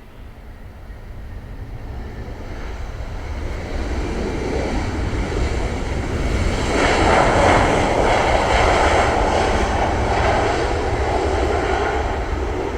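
Jet airliner engines growing steadily louder over several seconds into a loud, sustained roar.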